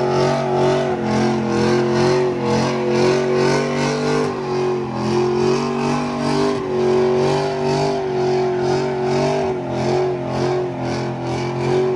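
A car or truck engine running loudly at high, steady revs, its pitch holding level and shifting a few times, with a faint regular pulsing.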